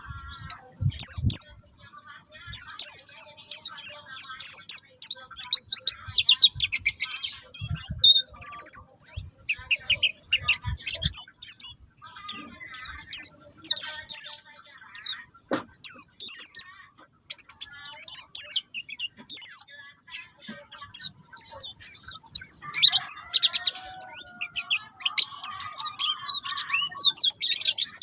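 A white-eye (pleci buxtoni) twittering with quick, high chirps in rapid runs, almost without pause. A few dull low thumps come in the first ten seconds or so, and a lower wavering call joins near the end.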